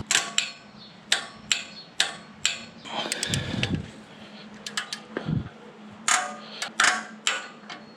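Torque wrench working an exhaust flange nut onto its stud on a Harley-Davidson Dyna: a string of irregular clicks with creaking from the nut as it tightens. To the owner the creaking and clicking don't feel right, like crud built up in the threads.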